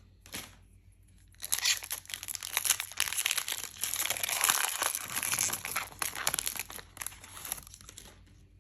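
Plastic booster pack wrapper crinkling and tearing as it is opened. A dense run of crackles starts over a second in and lasts about six seconds.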